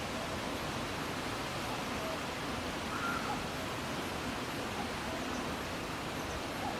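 Steady rushing of a mountain valley stream, an even wash of water noise at constant level, with a few faint brief chirps over it.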